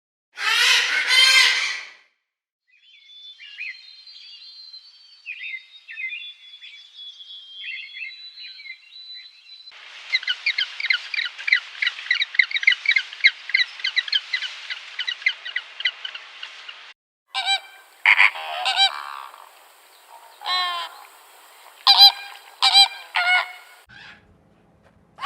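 Geese and other fowl calling in a run of short clips: honking calls, faint chirping, and a stretch of dense rapid calls that cuts off suddenly.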